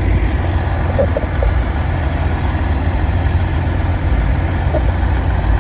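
Diesel semi-truck engine idling close by, a steady low rumble.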